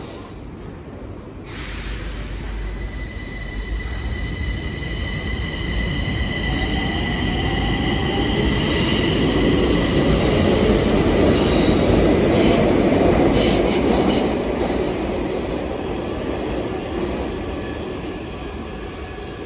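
Stockholm Metro train running past on the track. It builds to its loudest about two-thirds of the way through, then fades. A high, steady whine of several tones, from the wheels on the rails, sounds through the first half.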